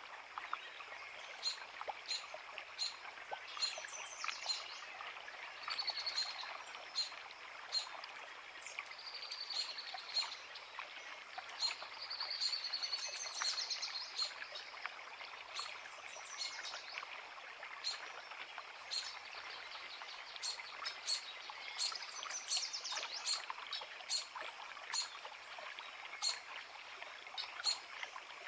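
Forest creek babbling steadily, with birds singing over it: sharp chirps repeated about twice a second and several high trilling songs.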